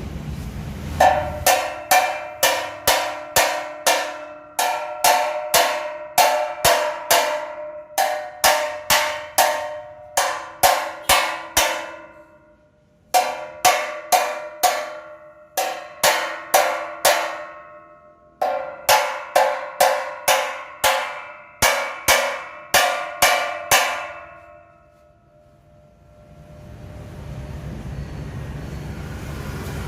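Hammer blows on ringing steel, about two a second, in runs broken by short pauses. The strikes stop near the end, and a low rushing noise rises.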